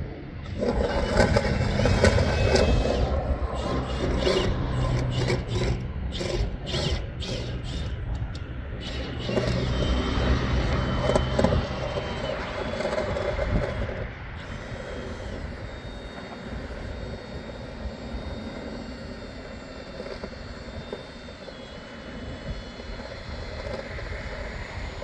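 A motor running with scraping and knocking, loud through about the first half, then settling to a quieter steady run.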